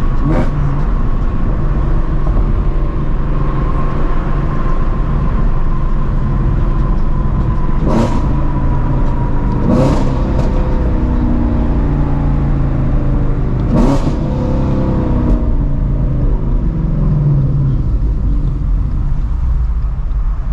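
A Shelby GT350's flat-plane-crank 5.2-litre V8, with long-tube headers and a straight-piped exhaust, running steadily while cruising. Four brief sharp bursts cut through it: one right at the start, then three more spread through the middle.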